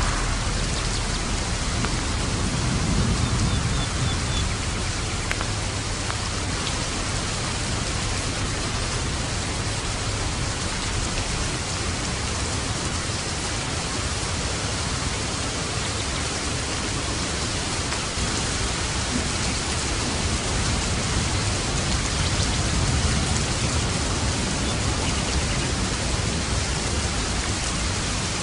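Steady rain falling on a roof, an even hiss of drops. Low thunder rumbles swell a few seconds in and again late on.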